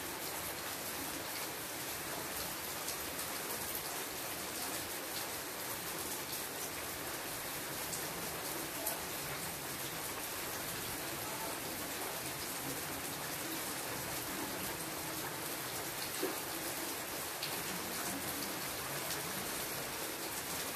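Steady rain falling on leafy foliage: an even hiss dotted with scattered sharp drip ticks, with a slightly louder drop splashing twice.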